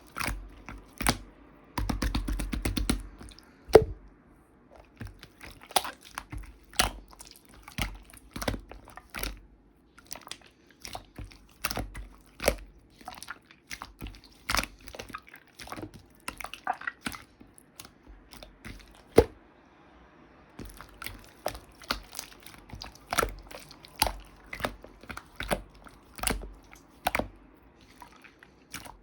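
A cat chewing crunchy food, with irregular sharp crunches in quick clusters broken by short pauses.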